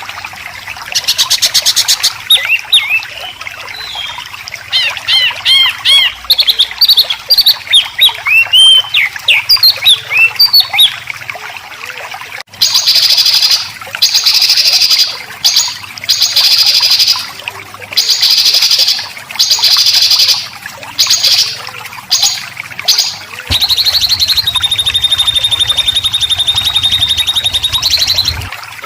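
Recorded songbird song of white-rumped shama and greater green leafbird: quick rising and falling chirps, then after an abrupt cut about twelve seconds in, loud harsh buzzy phrases (besetan) repeated in short bursts, ending in a long held high note.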